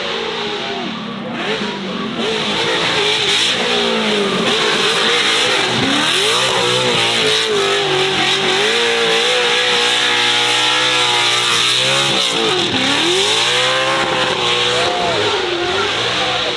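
High-performance car engine revving hard, its pitch swinging up and down under repeated throttle blips. Twice it drops sharply and climbs again, about six seconds in and again near twelve seconds.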